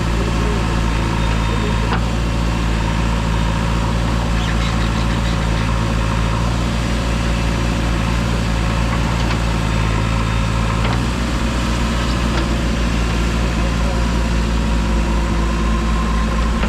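Heavy diesel engine running steadily, with a slight shift in its note about eleven seconds in.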